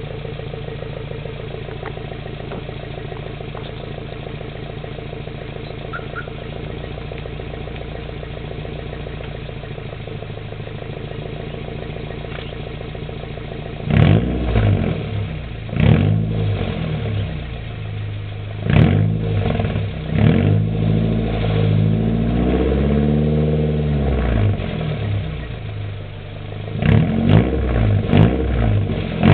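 Nissan KA24DE four-cylinder idling steadily through a dual 3-inch straight-pipe catback with a stock manifold and cat, then from about halfway blipped about six times, each rev rising and falling, up to about 2,000 and 3,000 rpm.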